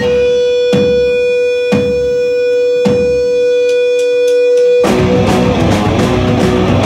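Live electric guitar sustaining one steady ringing note, broken by a few sharp hits about a second apart. About five seconds in, the full punk band crashes in with drums and guitars.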